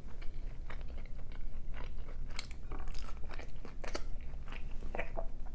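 A person chewing a bite of consommé-dipped birria taco: irregular crunches and mouth clicks.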